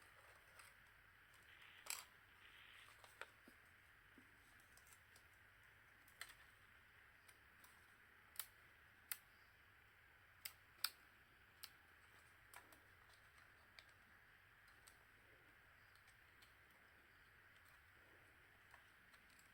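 Near silence: faint room tone with a low hum, broken by about ten short, scattered clicks and taps.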